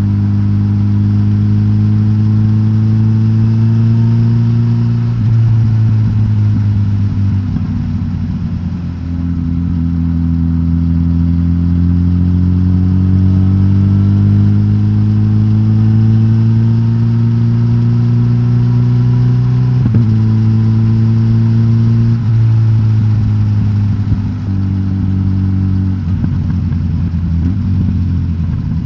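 Suzuki GSX-S1000GT's K5-derived inline-four engine, decatted on its stock exhaust, running under way. The pitch climbs slowly under acceleration and drops in steps at several gear changes.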